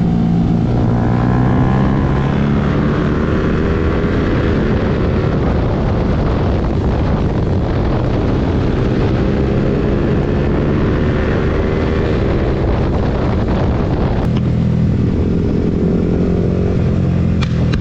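Motorcycle engine running under way, its pitch climbing as it accelerates, dropping about fourteen seconds in and climbing again near the end, with wind noise on the microphone.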